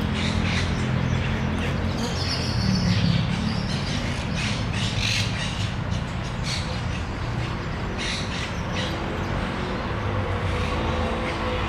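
Birds giving short, harsh calls again and again over a low, steady rumble.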